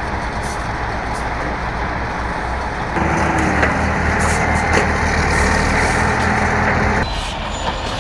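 Heavy truck engine running steadily, louder with a firm engine note from about three to seven seconds in, then dropping back.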